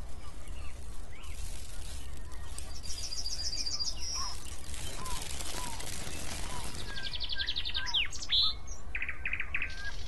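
Several birds chirping and singing over a steady background noise with a low hum: a few short rapid trills and some quick downward-sweeping calls.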